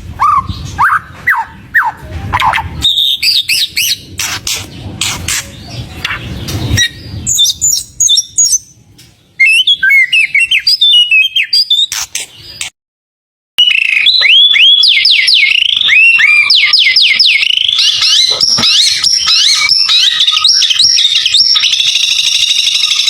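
White-rumped shama (murai batu) singing: a mix of chirps and sharp clicking notes, a brief break in the recording about halfway through, then a fast run of sweeping whistles that runs into a rapid high trill.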